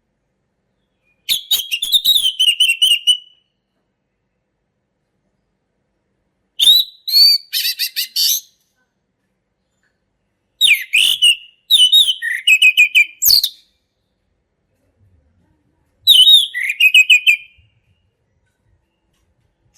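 Male orange-headed thrush singing its loud full song: four phrases of clear whistled notes running into fast trills, each one to three seconds long, with pauses of a few seconds between them.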